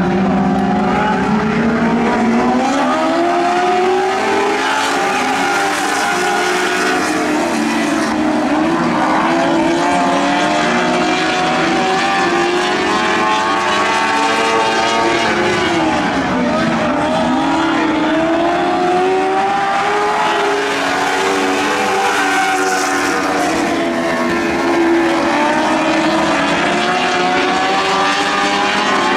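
A field of Lightning sprint cars racing on a dirt oval: several engines at once, their pitch rising and falling over and over as the cars lift and accelerate through the laps, without a break.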